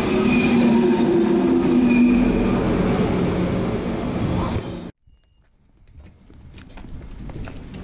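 Deutsche Bahn ICE high-speed train moving past along the platform close by, a steady rush of wheel and running noise with a held hum and a higher whine. The sound cuts off suddenly about five seconds in.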